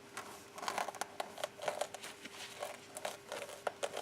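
A tyre-plug kit's spiral reaming tool being worked in and out of a puncture in a car tyre's tread. The rubber rasps and scrapes in many short, irregular strokes.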